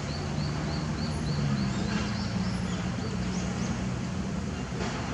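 A bird's short, high chirps, repeated about three times a second for the first second and a half, then a few scattered ones, over a steady low hum.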